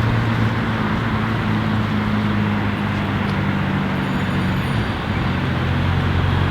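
Porsche 992 Carrera S's twin-turbo flat-six running steadily at low revs, a deep even drone; about five seconds in its pitch shifts and it grows slightly louder.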